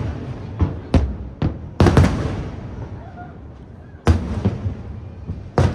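Aerial fireworks shells bursting: a string of sharp booms, each trailing off in an echoing rumble, with a quick cluster about two seconds in and two more single booms later.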